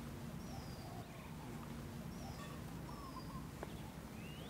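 Birds calling in the background: short, high, falling chirps every second or so, with a rising call near the end, over a faint steady low hum.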